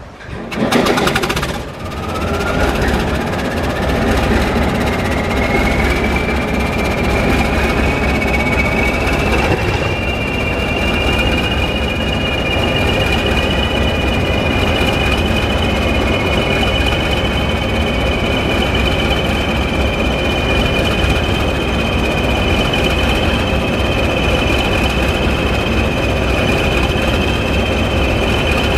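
British Rail Class 20 diesel locomotive's English Electric engine: a loud burst about a second in, then a rising turbocharger whistle that climbs over several seconds and settles into a steady high whine over the engine's heavy rumble.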